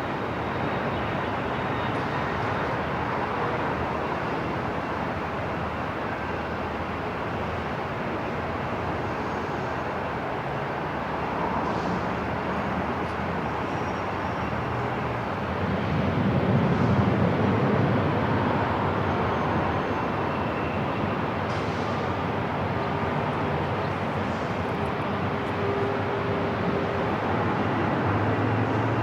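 Airport ambience: a steady rumbling wash of noise, with a low rumble that swells for a couple of seconds about halfway through.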